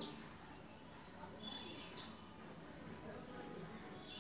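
Quiet background with faint, short bird chirps, the clearest one about a second and a half in.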